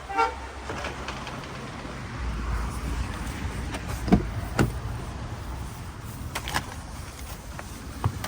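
Car door sounds: a short electronic chirp at the start, then a low rumble, two heavy thuds about four seconds in, and a few clicks near the end.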